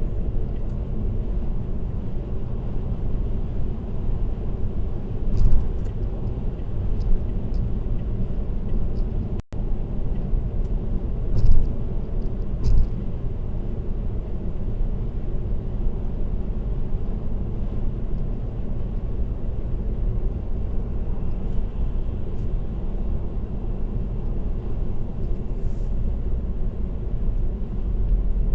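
Steady low road and tyre rumble of a car cruising on an expressway, picked up by a dashcam in the car, with a few short thumps about five and eleven to thirteen seconds in.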